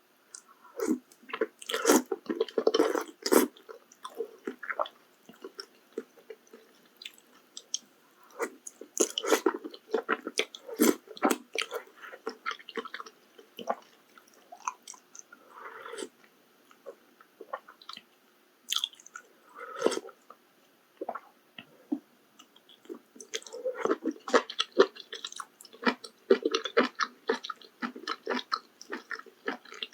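Close-miked chewing of maratang (spicy mala soup with noodles and toppings): clicky, crunchy mouth sounds come in bursts of a few seconds, with short pauses between bites.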